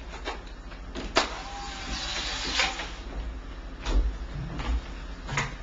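Scattered knocks and clatters with rustling in between, over a low rumble.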